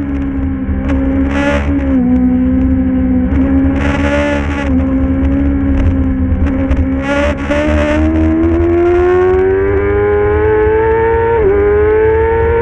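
Middleweight superbike racing motorcycle engine at high revs. Its pitch sags and holds for a few seconds, then climbs steadily under acceleration, with one quick dip near the end as it shifts up. Short bursts of hiss come and go over the engine.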